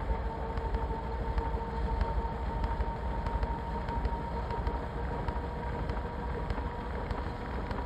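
Washing machine running, a steady rumble with a steady high whine over it.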